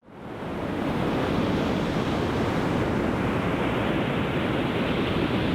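Steady rushing of ocean surf and wind, fading in over the first second.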